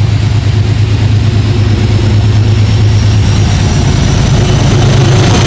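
Diesel locomotive of a Metro-North train running at the platform: a loud, steady low engine drone, with a faint high whine slowly rising in pitch and the drone swelling slightly near the end.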